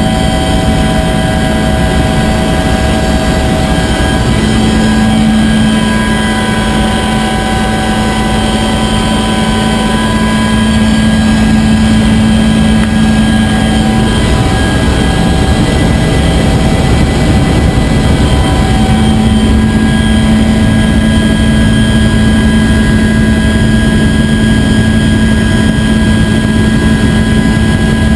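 Bell UH-1 Huey helicopter running, a steady loud noise with several held whining tones that come and go and shift now and then.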